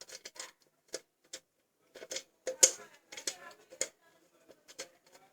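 Irregular small clicks and taps of metal parts being handled: a mixer grinder jar's blade coupler being turned by hand, with one sharper click about two and a half seconds in.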